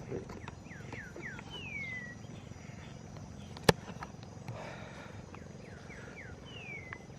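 A bird singing a phrase of three or four short falling whistles ending in one longer falling whistle, given twice. A single sharp click comes about halfway between the two phrases.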